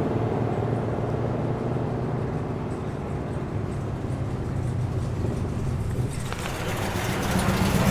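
Car engines and exhausts driving slowly past: one car's low exhaust rumble fades away, then another car approaches and grows louder over the last two seconds.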